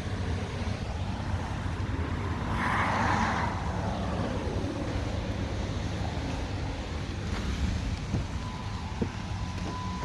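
2010 Dodge Charger SRT8's 6.1-litre HEMI V8 idling through a modified exhaust, a steady low rumble. A brief rushing noise comes about three seconds in, and a steady high tone begins near the end.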